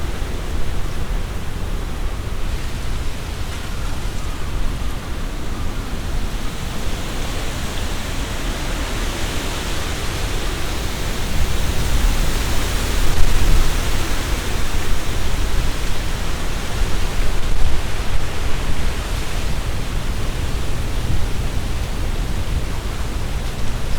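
Tree leaves rustling in strong, gusty wind, over a low rumble of wind. A stronger gust builds about halfway through and peaks briefly before easing off.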